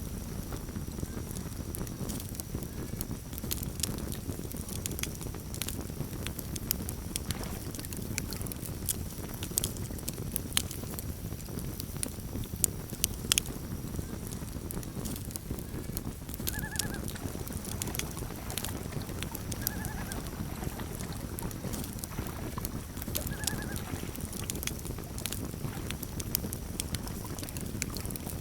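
Campfire burning, with a low steady rumble and irregular sharp crackles and pops from the burning wood, a few louder pops about halfway through. Three short trilled chirps sound over it, at roughly three-second intervals in the second half.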